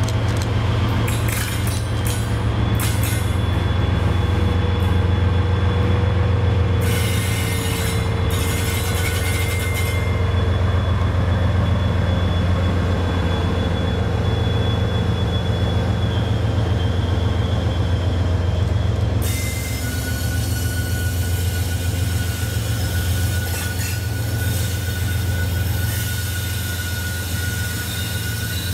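A diesel-hauled freight train of loaded log wagons rolling slowly past: a steady low engine drone under the rumble of the wagons, with thin, steady wheel squeals at several pitches as the wheels grind round the curve, a new squeal setting in about two-thirds of the way through.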